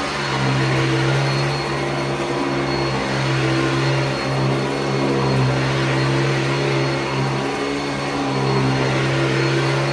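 Hoover Decade 80 upright vacuum cleaner running, a steady motor hum whose pitch and level waver slightly.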